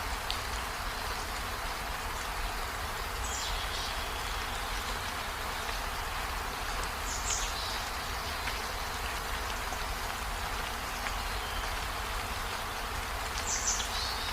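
Steady rain falling on tree leaves and a window pane, an even hiss throughout. A few brief high chirps stand out about three seconds in, around the middle, and near the end.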